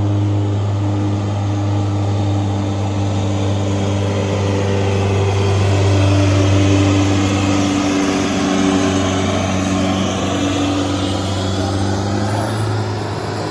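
Boat engine running with a steady, loud low drone, shifting slightly about eight seconds in.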